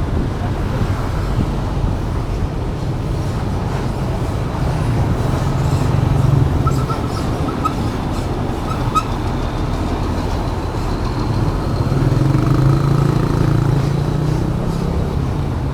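Steady, loud rumble of wind buffeting the microphone over the noise of road traffic.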